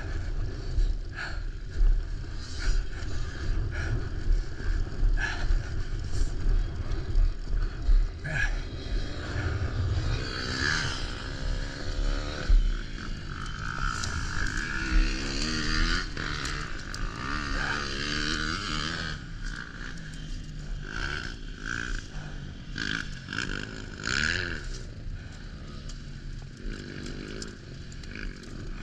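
Dirt bike engines revving, their pitch rising and falling several times, over a steady low rumble with wind buffeting the microphone and a few knocks.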